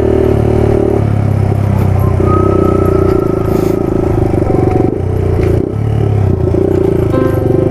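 Suzuki DR200's single-cylinder four-stroke engine running under throttle on a dirt trail, its note rising and falling as the throttle is worked, with a brief dip near the middle. Loose clattering and scraping under the engine.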